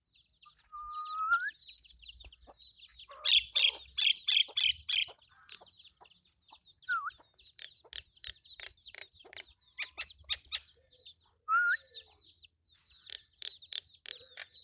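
Chicks peeping: many short, high peeps in quick runs, the loudest and fastest about three to five seconds in, with three lower calls that rise in pitch scattered through.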